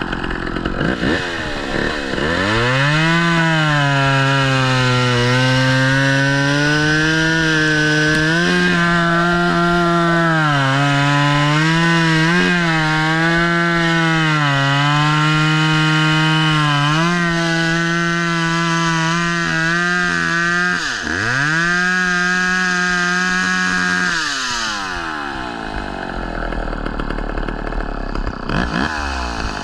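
Two-stroke chainsaw revving up a couple of seconds in and running at full throttle while cutting wood, its pitch sagging and recovering as the chain loads up. About two-thirds of the way through it drops sharply, revs back up, then falls back to a lower idle near the end.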